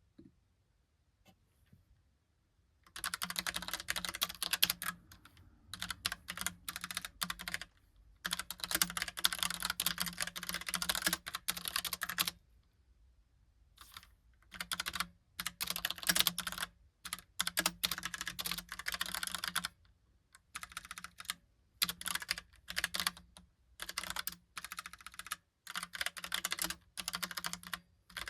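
Typing on a Logitech Pop Keys mechanical keyboard: fast runs of key clicks lasting a few seconds each, broken by short pauses, after about three nearly quiet seconds with a few stray clicks.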